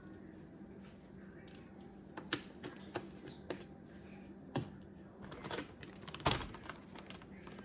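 Scattered light taps and clicks from hands handling kitchen items on a counter, about seven in irregular succession, the loudest a bit after six seconds in, over a faint steady hum.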